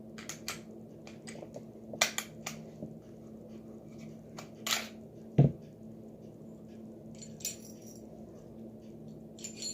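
Handling noises as a 9mm semi-automatic pistol is taken apart for cleaning: scattered small clicks and light knocks, with a duller thump about five and a half seconds in, over a faint steady hum.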